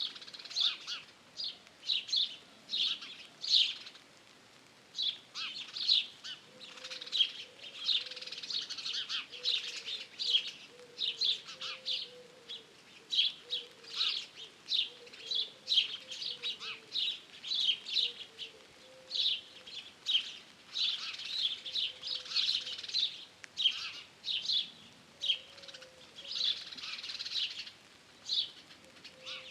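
Songbirds chirping: a dense run of short, high chirps one after another, with a faint, low, wavering call underneath.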